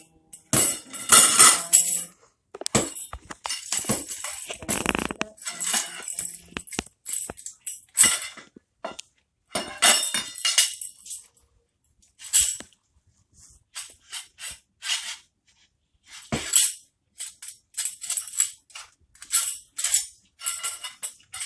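A jingling toy rattle shaken in short bursts, over and over, with brief pauses between the shakes.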